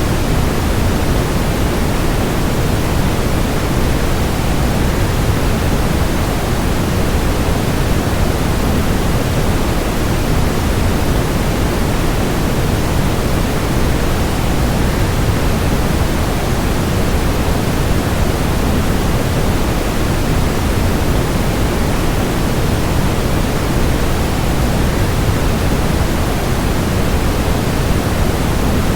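Waterfall running: a steady, even rush of water with most of its weight low and no change or break.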